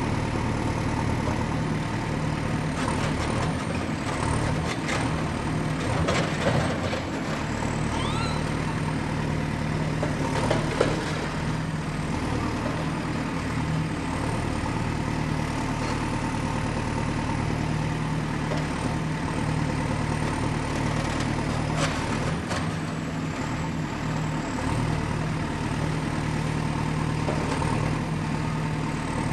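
Excavator's diesel engine running steadily, with a few sharp knocks and clanks from the machine at work scattered through.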